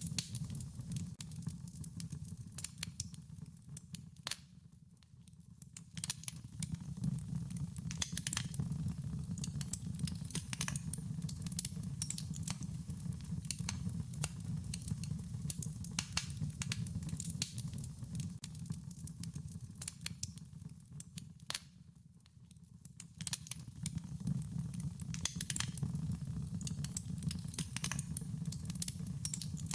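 Wood fire crackling, with sharp pops and snaps scattered over a steady low rumble of burning. The low rumble fades away twice, briefly, about five seconds in and again past twenty seconds, then returns.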